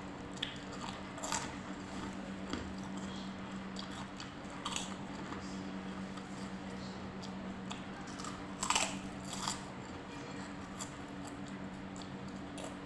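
Close-up eating of tahu tek with kerupuk crackers and bean sprouts: irregular crunchy bites and chewing, loudest about nine seconds in, over a steady low hum.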